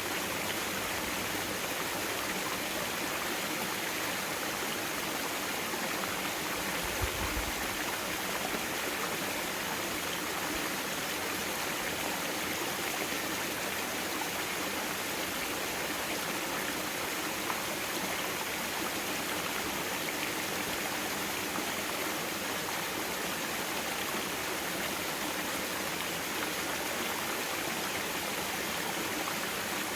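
Mountain stream water flowing steadily over rocks, an even rushing with no pauses. A brief low thump about 7 seconds in.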